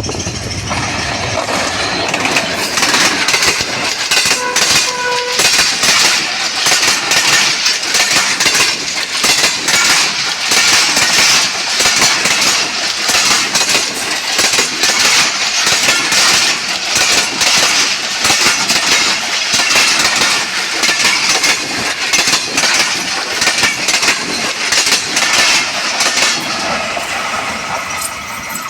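Express passenger train passing at speed close by: a loud, continuous rush of wheels on rail with rapid clatter over the rail joints, easing off slightly near the end.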